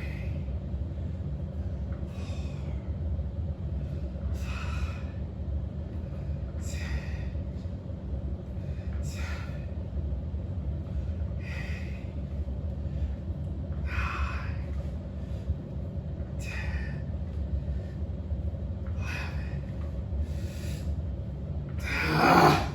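A man breathing hard after a set of leg exercises, about one loud breath every two seconds, over a steady low hum; a little before the end comes one louder, longer breath.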